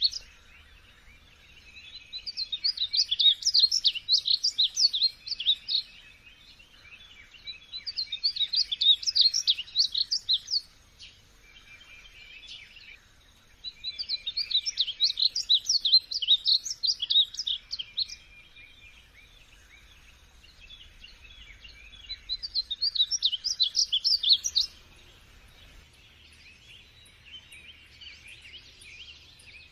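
Songbird singing in repeated bouts of rapid, high chirping notes, each bout about three to four seconds long, four times over, with quieter twittering in the gaps and after the last bout.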